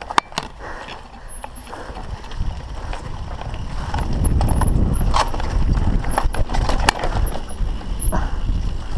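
Mountain bike clattering over rough downhill terrain, with many sharp knocks and rattles. A low rumble of wind on the mic builds after the first few seconds.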